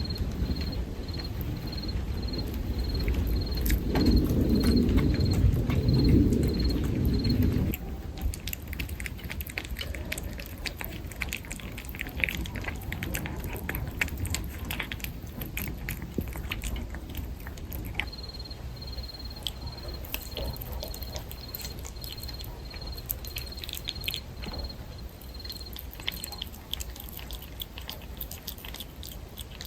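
Cats chewing and crunching cat food, a dense run of small wet clicks. A cricket chirps in even pulses about twice a second for the first eight seconds and again from about 18 s to 26 s. A low rumble under the first eight seconds cuts off suddenly.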